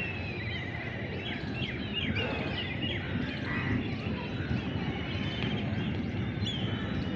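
Several small birds chirping and trilling over a steady low outdoor rumble.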